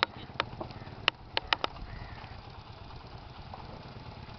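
Small motorcycle engine idling with a steady low rumble. A handful of sharp knocks come in the first second and a half.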